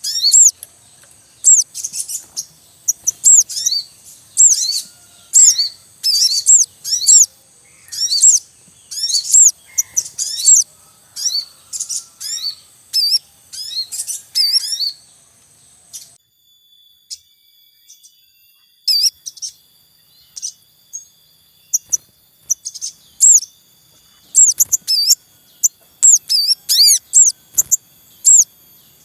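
Sogon birds chirping in the wild: rapid, high, repeated chirp calls about every half second. They break off for about three seconds midway and then resume, growing busier near the end, against a faint steady high-pitched hum.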